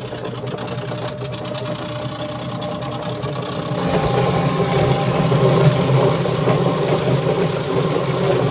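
Electric drum-style chicken plucker running steadily, with a motor hum and rattle that grows louder about four seconds in.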